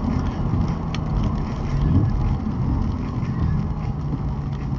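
Audi RS3 8V's 2.5-litre five-cylinder engine running under way, with road noise, heard from inside the car: a steady low drone with a brief swell about two seconds in.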